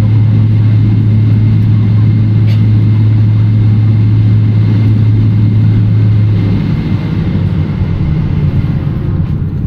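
Boeing 777-300ER cabin noise at the gate: a steady loud low hum with rumble, the hum cutting off about two-thirds of the way through and leaving a rougher low rumble.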